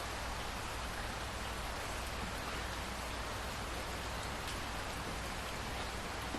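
Steady rain falling: an even hiss at a constant level, with faint individual drops ticking through it.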